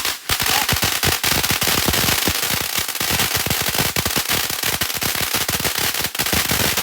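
Firework going off in a long string of rapid, crackling bangs, several a second without pause, like a string of firecrackers.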